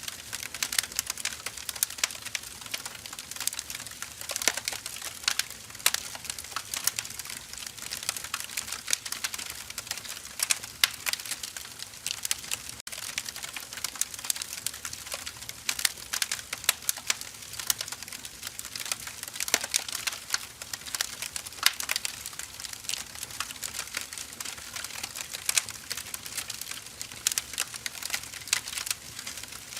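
Burning firewood crackling and popping: many irregular small sharp snaps over a soft hiss, with louder pops now and then.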